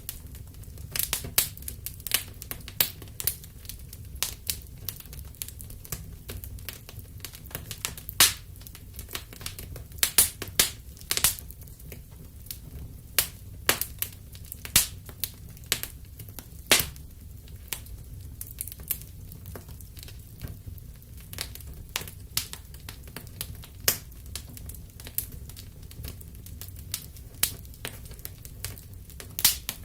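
Wood fire in a fireplace crackling, with irregular sharp pops, a few much louder than the rest, over a steady low rumble.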